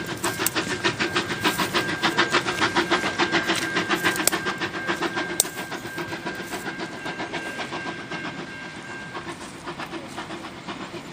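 Steam train hauled by New Zealand Ab-class locomotive Ab608 moving away down the track, with a fast, even beat that slowly fades. A steady high tone runs alongside and stops about nine seconds in.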